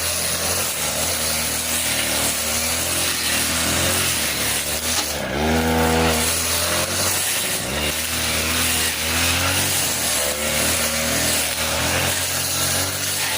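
40cc two-stroke brush cutter running hard, its blade cutting through thick grass. The engine revs up and drops back once about five seconds in.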